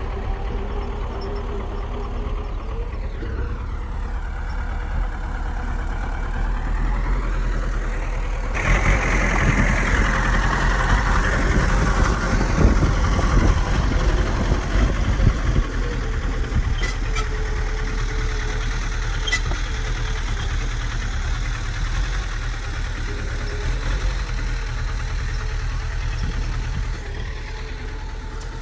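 Bulldozer's diesel engine running steadily. It grows louder and busier about nine seconds in, then settles back after about sixteen seconds.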